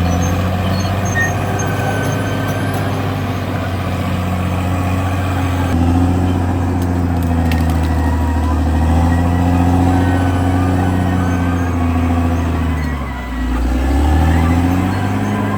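Diesel engine of a Caterpillar D6R XL crawler bulldozer running under working load, its pitch rising and falling; near the end the engine note drops and then picks back up.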